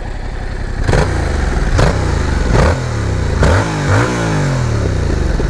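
Yamaha R7's 689 cc parallel-twin engine on its stock exhaust, revved while standing: it idles, then is blipped five times in quick succession, the revs falling back after each blip and settling to idle near the end.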